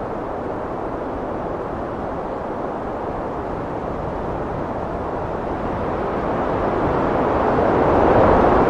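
Heavy wind blowing as a steady rushing noise that swells into a louder gust over the last few seconds.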